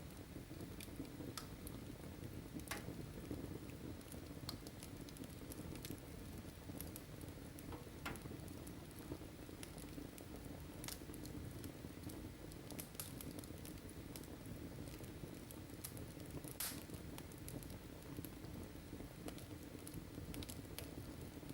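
Wood fire burning in a fireplace: a steady low rush with scattered sharp crackles and pops, one of the loudest coming late on.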